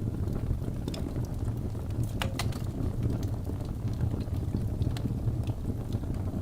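Logs burning in a fireplace: a steady low rumble of the flames with scattered crackles and pops, two sharper pops a little over two seconds in.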